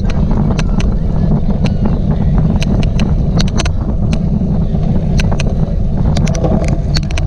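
Cyclocross bike being ridden, heard from an onboard camera: a loud, steady low rumble of wind on the microphone and tyres on rough ground, with sharp irregular clicks several times a second, the odd clicking noise of this recording.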